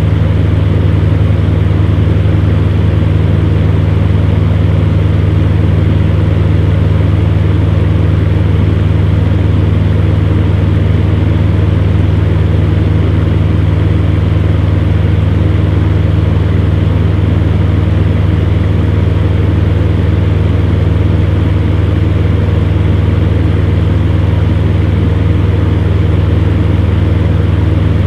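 Electric fan heater running steadily: a constant deep motor hum with an even rush of air from the fan, unchanging throughout.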